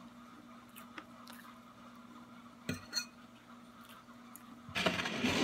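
Someone chewing a mouthful of cake close to the microphone, with a few light clicks of a metal fork, over a faint steady hum. A louder stretch of noise comes in near the end.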